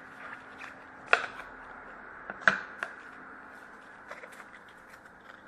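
Trading cards handled and sorted by hand: light ticks of card edges, with two sharp snaps about one second and two and a half seconds in.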